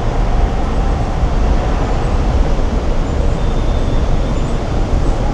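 Steady road traffic noise, a constant low-heavy hum of passing and idling vehicles without distinct events.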